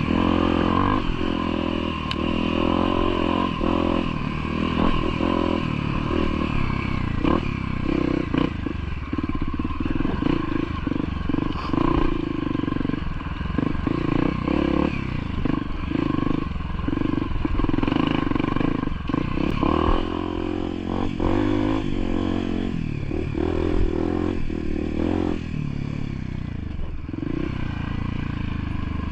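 Motorcycle engine running with its pitch rising and falling as the bike is ridden, with frequent clattering knocks from the bike on rough ground.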